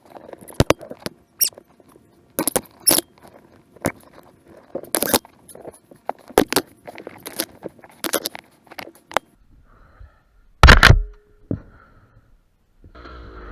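Irregular sharp clicks and squeaks, about a dozen over nine seconds, then a loud thump about eleven seconds in.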